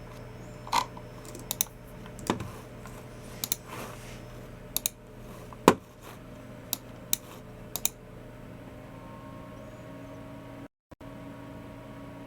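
Scattered, irregular clicks of keys on a Logitech MX Keys Mini keyboard and of a Logitech G304 mouse, about a dozen over the first eight seconds. Then they stop, leaving a steady low hum, and the sound cuts out for a moment near the end.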